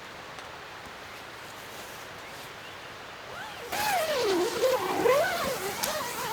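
Steady hiss of light rain, then about four seconds in a dog starts a long wavering whine, its pitch sliding up and down.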